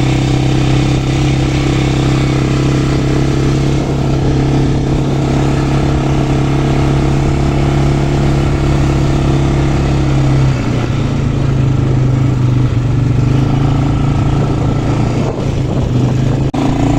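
Quad bike engine running steadily while riding, its note dipping slightly about ten seconds in.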